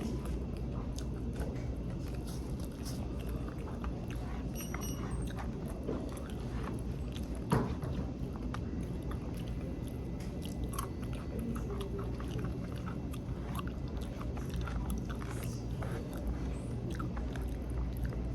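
Close-up chewing and biting of crunchy fried fish, with many small irregular crunches and one sharper crunch about seven seconds in, over a steady low hum.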